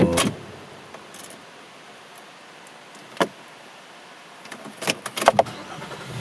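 A 4x4 vehicle's engine is switched off, its steady hum cutting out with a click. Then a single click about three seconds in, and a cluster of clicks and rattles about five seconds in.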